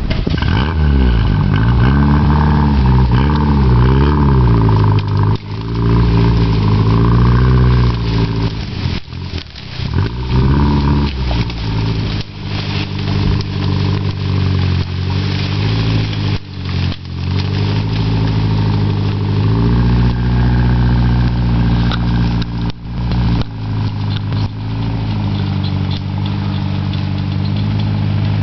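Engine of a Belina tractor running, its pitch rising and falling repeatedly over the first ten seconds or so, then running more steadily with a few brief drops.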